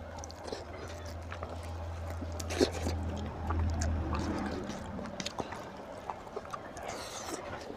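Close-miked chewing and lip-smacking while eating goat intestine (boti) curry and rice by hand, with scattered small wet clicks. One sharp click comes about two and a half seconds in, and a low steady hum underneath stops about four seconds in.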